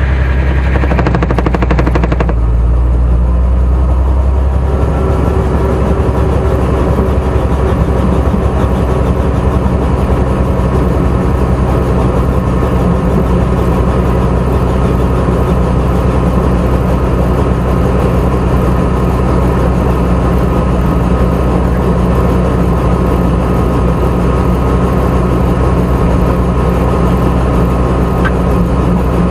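Helicopter's engine and rotor running, a loud steady low hum with fast, even blade chop; the tone shifts slightly a few seconds in.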